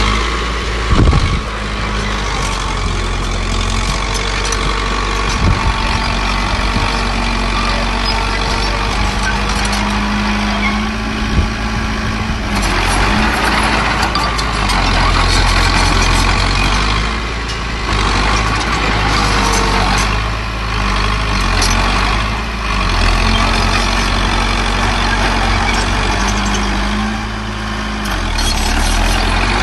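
Diesel engines of a small bulldozer and dump trucks running steadily, with a few short knocks.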